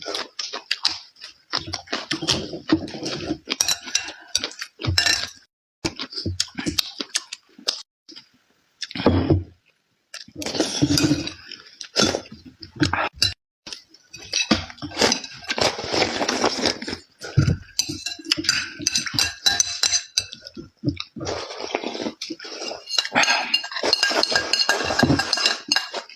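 Close-miked eating at a table: utensils clinking and scraping against plates and bowls, with eating noises, in irregular bursts and sharp clicks.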